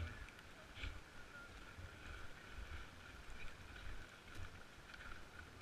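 Blizzard wind gusting over the microphone, a low uneven rumble that swells and drops every second or so, with faint crackles.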